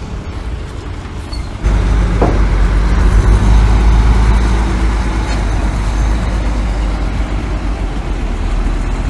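Heavy diesel construction machinery engine running, with a steady low hum that abruptly grows much louder and deeper about one and a half seconds in, as if put under load.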